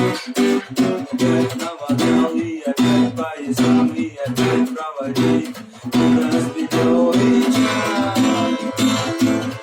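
Acoustic guitar strummed in a steady rhythm, playing chords, with a voice possibly singing along faintly.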